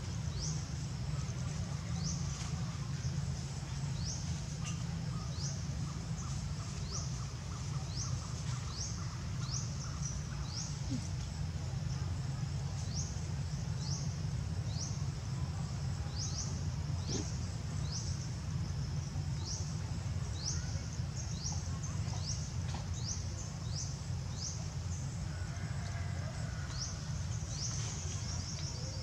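Short high-pitched bird chirps repeating about once a second, over a steady low background rumble.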